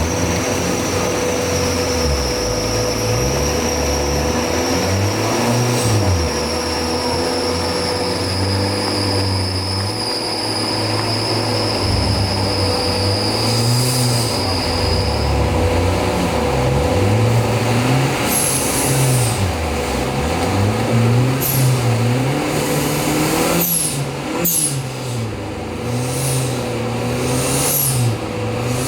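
Off-road 4x4 competition vehicle's engine revving up and down over and over, with a high whine over it that slowly falls through the first half. Short, sharp high squeals come in over the last third.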